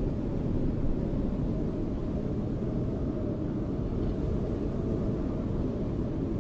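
Steady, low, rushing snowstorm wind with no gusts or breaks.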